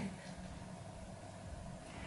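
Quiet background with a faint, steady low hum and no distinct sound.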